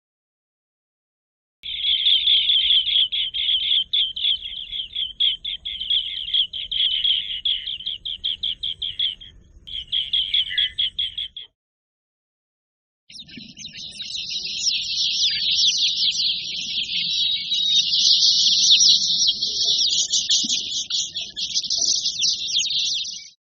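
Recorded bird calls in two passages. The first is a long run of rapidly repeated chattering notes that stops suddenly. After a brief silence comes a denser, continuous twittering song that also cuts off abruptly.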